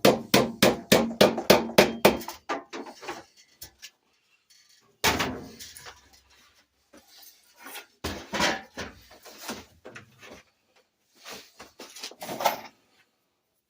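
A fast run of sharp metallic clicks or knocks, about four a second, dying away after two or three seconds. Then scattered clanks and knocks of plumbing tools and fittings being handled.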